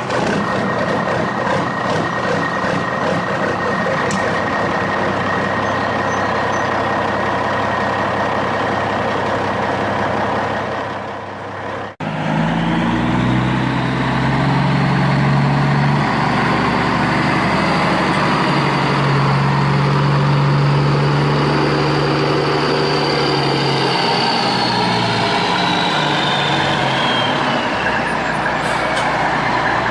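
Heavy-vehicle engine sound running steadily. About twelve seconds in it cuts abruptly to a deeper-running engine with a high whine that rises, holds, then falls away near the end.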